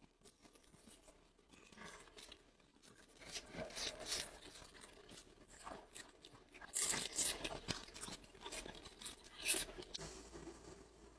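Close-miked eating: irregular chewing and biting of food. It is quiet for the first three seconds, then louder, with the sharpest bites about seven and nine and a half seconds in.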